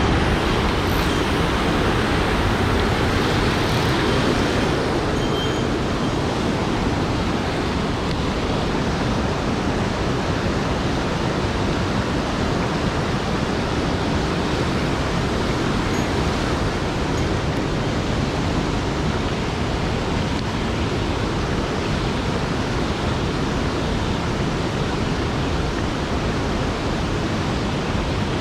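Mountain stream water rushing: a loud, steady, even noise that keeps on throughout.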